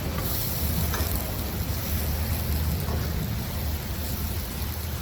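Onion frying in butter in a pan, a steady rain-like sizzle, over a low steady hum.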